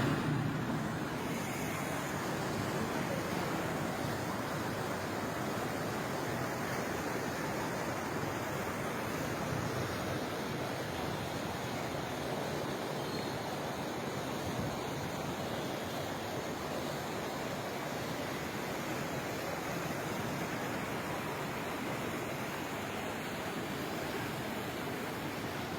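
Floodwater rushing in a river swollen by rain, a steady, unbroken sound of moving water.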